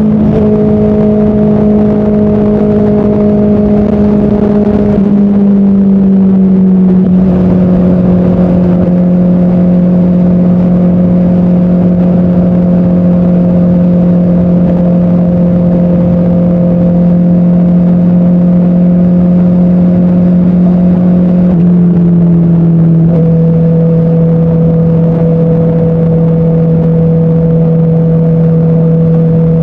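Motorcycle engine running at a steady highway cruise, with wind rush over it. The engine note eases down a little twice, about five to seven seconds in and again a little past twenty seconds.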